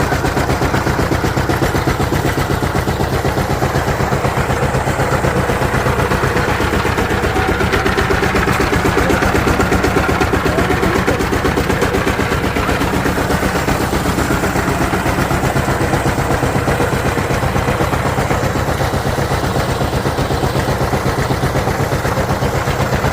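Diesel engine running steadily with a loud, rapid, even firing beat.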